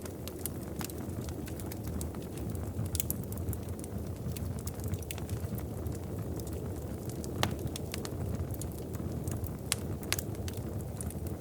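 Wood fire crackling, with frequent small pops over a steady low rumble and one sharper pop about seven and a half seconds in.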